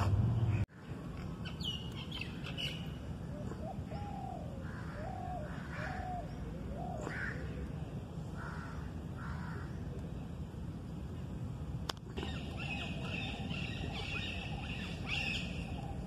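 Birds calling among park trees: a run of four short rising notes a few seconds in, other scattered calls, then a busy chorus of high chirps from about twelve seconds. A loud low rumble cuts off abruptly under a second in.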